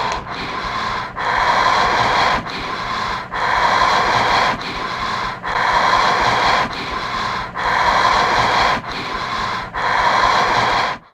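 Heavy, rasping breathing used as a horror sound effect: about five slow breath cycles, each a louder stretch followed by a softer one, over a faint low hum. It starts and cuts off abruptly.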